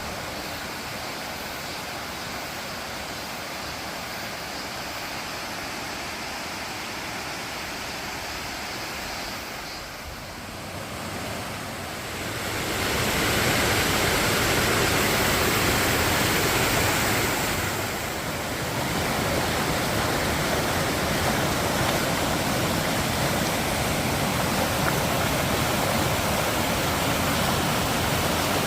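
Rushing water of a mountain valley stream, a steady noise that grows louder about halfway through.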